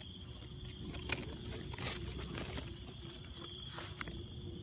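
Steady chorus of crickets and other insects trilling, one high trill pulsing, with a few soft clicks and rustles over a low rumble.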